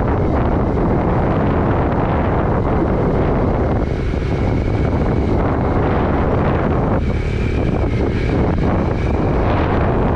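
Wind buffeting the microphone on a moving motorcycle, a steady loud rush with the engine and road noise underneath.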